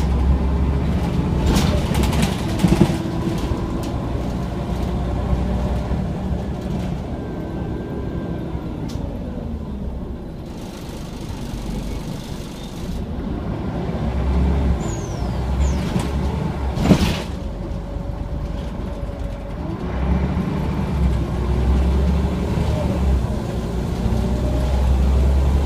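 Scania OmniCity single-decker bus engine running on the road, its pitch climbing and dropping as it accelerates and changes gear. It eases to a quieter spell about halfway through, then pulls away again. There is one short, sharp sound about two-thirds of the way through.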